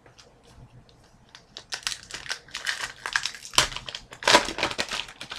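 Plastic trading card pack wrapper crinkling and rustling as it is handled. It is faint at first, then starts a dense crackle about a second and a half in that grows louder toward the end.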